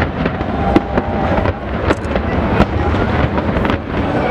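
Large aerial fireworks display: a dense continuous rumble of shell bursts with irregular sharp bangs and crackling.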